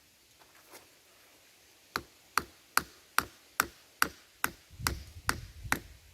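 A hammer striking, about ten quick, evenly spaced blows at roughly two to three a second, starting about two seconds in.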